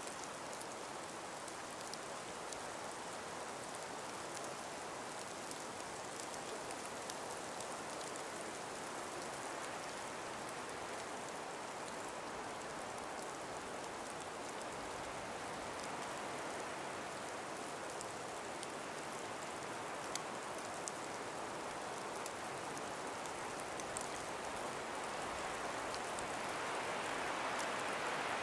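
Steady gentle wind through an ice- and snow-laden forest, swelling slightly near the end, with scattered faint ticks.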